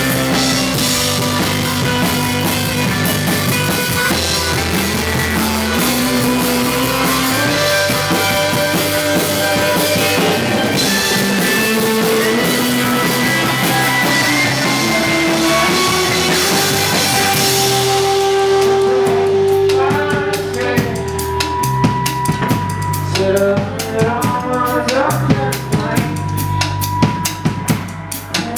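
Live rock band playing an instrumental passage with drum kit, bass and guitar. About two-thirds of the way through, the dense full-band sound thins out to mostly drums, with sparse held guitar notes over them.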